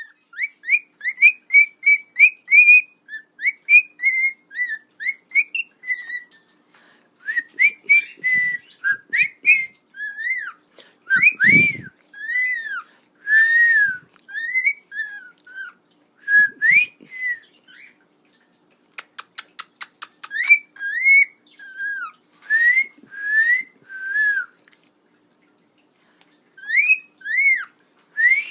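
Cockatiel whistling a long series of short clear notes that rise and fall in pitch, quick runs at first, then longer swooping phrases broken by short pauses. A brief run of fast clicks comes about two-thirds of the way through.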